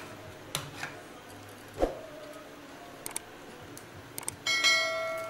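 Small metal tools and wires being handled on a workbench: scattered light clicks and taps, a dull knock just under two seconds in, then near the end a sharp metallic strike that rings on with a clear bell-like tone as it fades.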